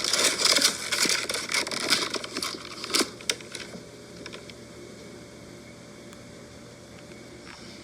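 Crinkling plastic blister packaging and card, with small clicks and taps as the package is handled, for about the first three and a half seconds; after that only faint room hiss.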